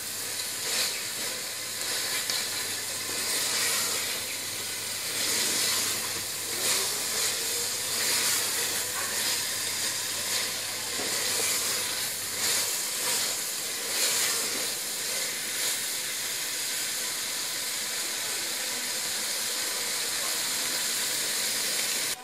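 Spinach and mutton curry frying in oil in an aluminium pot, a steady sizzle with faint scrapes as a wooden spatula stirs it. This is the bhuna stage, where the dish is fried down after the boiled spinach goes in.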